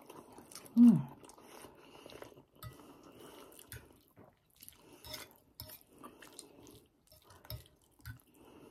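Close-up chewing of soft palabok rice noodles, with wet mouth clicks and smacks. About a second in comes a short hum that falls in pitch from the eater, the loudest sound.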